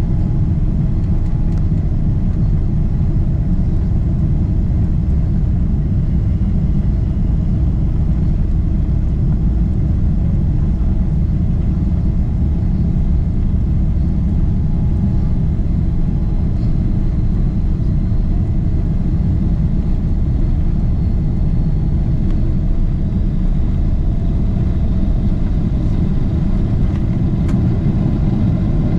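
Steady, loud low rumble of a Boeing 777-300ER airliner heard from inside the cabin: engine and airflow noise holding at an even level throughout.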